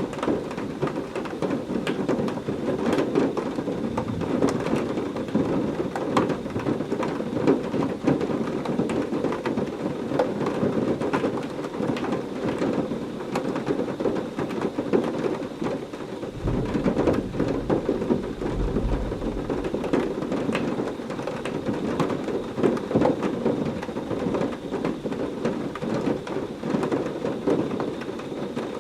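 Heavy rain falling steadily, with many close drops ticking on a surface. A low rumble of thunder rolls in about halfway through and lasts a few seconds.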